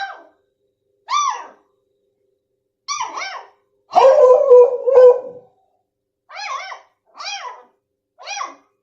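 A dog giving a string of short, high-pitched barks, each rising and falling in pitch, about one a second. There is a louder, lower outburst lasting over a second, about four seconds in.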